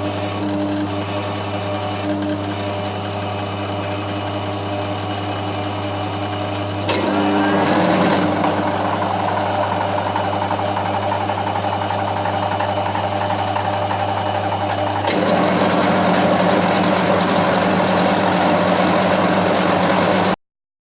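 Milling machine running, cutting the edge of a cast-iron bandsaw table; the sound grows louder and rougher about seven seconds in and again at about fifteen seconds, then cuts off suddenly near the end.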